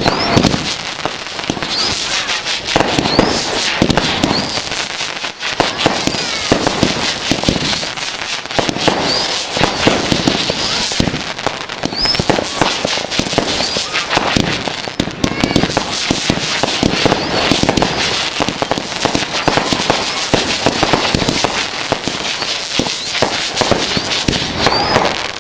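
Fireworks finale barrage: a dense, unbroken run of bangs and crackling shells, with short rising whistles now and then.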